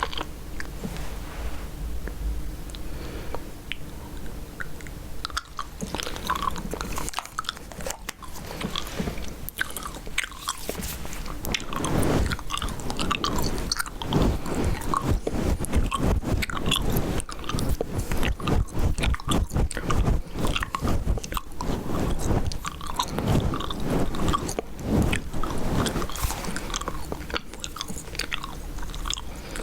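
Close-miked gum chewing: a dense run of short mouth clicks and smacks. It grows louder and busier about twelve seconds in.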